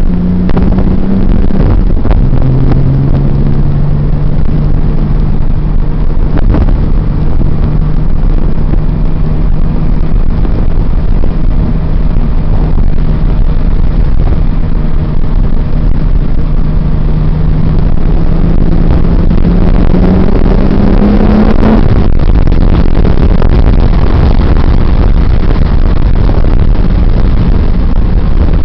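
Nissan 300ZX Twin Turbo's V6 running on the move, under a heavy, loud rumble. The engine note drops about two seconds in, then climbs slowly. It rises more quickly around twenty seconds and gives way to a louder rushing noise for the rest of the time.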